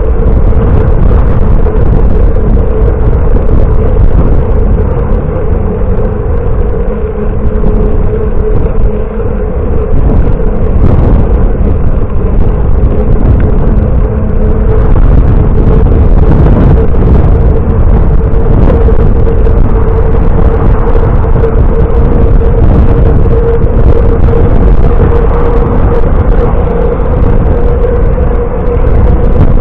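Wind rumbling on the microphone of a camera carried on a moving bicycle, loud and continuous, with a steady hum running through it.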